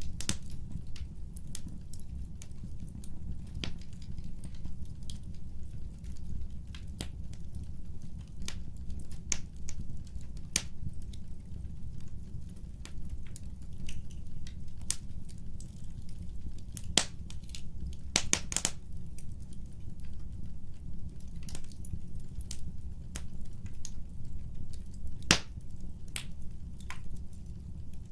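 Wood fire burning, its logs crackling with irregular sharp pops over a steady low rumble of flame. A quick run of pops comes about two-thirds through, and the loudest single crack about three-quarters through.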